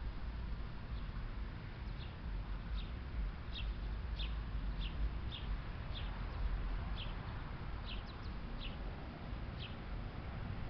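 A bird calling over and over: short, high chirps, each falling in pitch, about one every half second to a second, over a low steady rumble.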